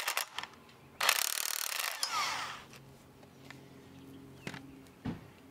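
Impact wrench hammering in one burst of about a second, starting about a second in, on a seized alternator bolt that is just beginning to turn. Afterwards only a faint, steady low hum.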